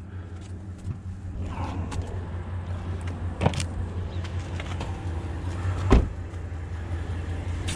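A car engine idling with a steady low hum, broken by two sharp knocks, the louder one about six seconds in.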